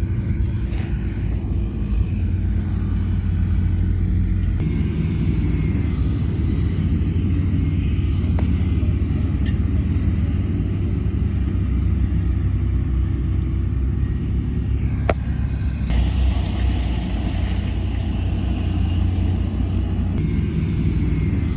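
Heavy diesel construction machinery running with a steady low rumble, the engine note shifting about four seconds in and again near the end of the third quarter. Two brief sharp knocks stand out, one near the middle and one a little later.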